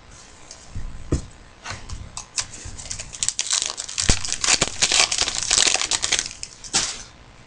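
Crinkling and tearing of a trading-card pack wrapper being ripped open and handled: a run of sharp crackles that grows denser and louder in the middle and stops shortly before the end.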